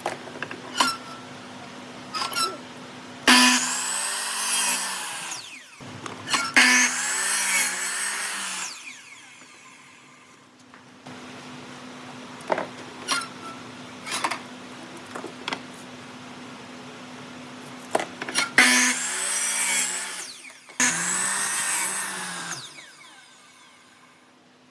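Woodworking power tool running in four bursts of about two seconds each, in two pairs, its pitch bending as it works. A steady low hum runs underneath, with a few sharp clicks between the bursts.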